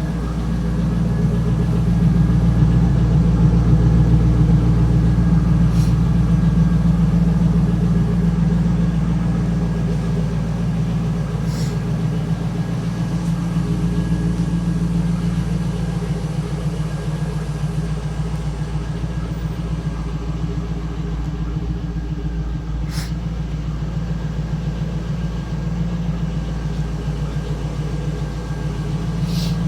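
2002 Camaro SS's 5.7-litre LS1 V8 idling steadily while it warms up to operating temperature after a cold start.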